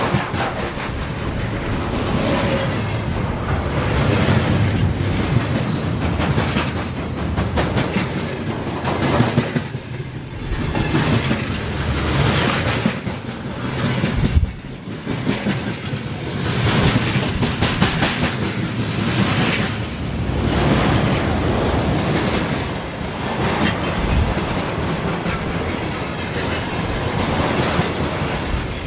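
A train's wagons rolling past close by, the wheels clacking over rail joints in a long run of beats.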